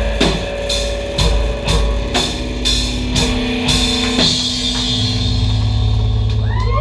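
Experimental electronic noise music: sharp percussive hits about twice a second over steady droning tones, the beat stopping about four seconds in and giving way to a hissing wash over a low hum, with arching pitch sweeps near the end.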